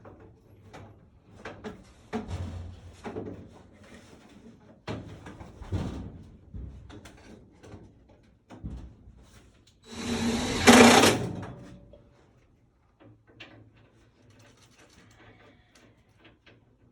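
Irregular knocks, clicks and scraping from hands-on installation work, with a loud rushing, hissing noise for about two seconds around the middle.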